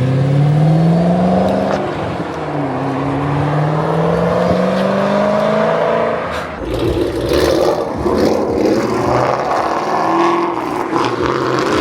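A car engine accelerating hard, its pitch rising, dropping at an upshift about two seconds in, then rising again. From about six seconds in, a rougher mix of engine noise follows as more cars pull away.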